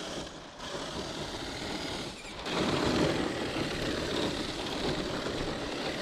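Electric radio-controlled truck driving through snow: its motor and gear drivetrain running with a steady noisy whir, easing off briefly twice.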